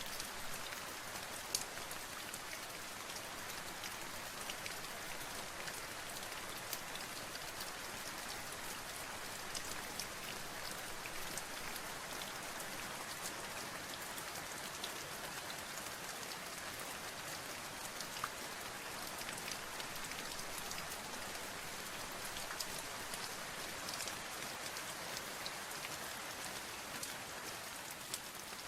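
Steady rain falling, a constant even hiss with many separate drops ticking through it.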